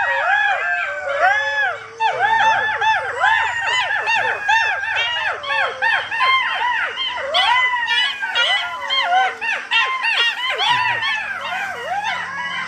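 A pack of golden jackals howling in chorus: many wailing calls overlapping, each rising and falling in pitch.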